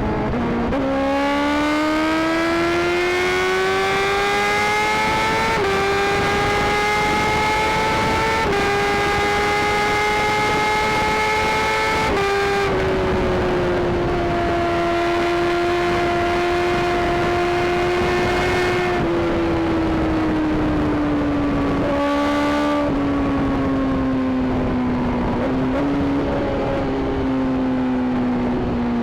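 Sport motorcycle's inline-four engine heard from on the bike, pulling up through the gears with three quick upshifts where the pitch drops, then holding a steady speed. Near the end it eases off and slows, with two short rises in pitch from downshifts. Wind rushes throughout.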